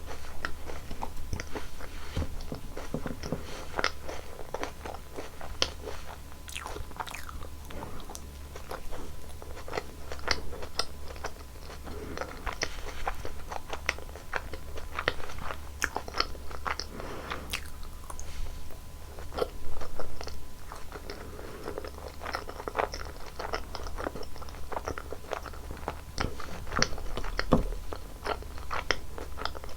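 Close-miked eating: a person biting and chewing Baskin-Robbins ice cream desserts, with frequent small wet clicks and crackles at an irregular pace, over a steady low hum.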